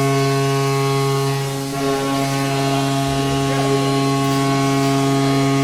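Goal horn sounding after a goal: a steady, buzzing tone held without a break.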